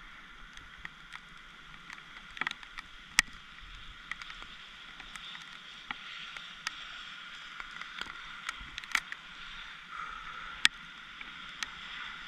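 Light rain falling, a steady hiss with scattered drops tapping irregularly close by, two of them sharper than the rest, about three and ten and a half seconds in.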